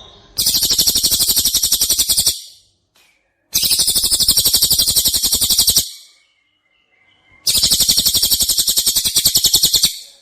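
Songbird giving a 'tembakan' (shot) song: a rapid, high-pitched trill of evenly repeated notes, delivered in three bursts of about two seconds each with short pauses between.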